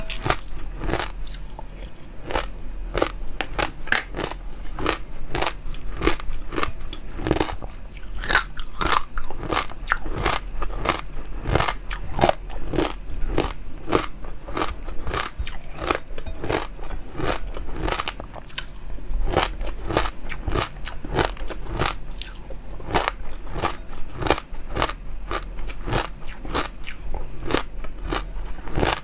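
Close-miked eating: a person biting and chewing food, with a steady run of crisp, crunchy clicks several times a second.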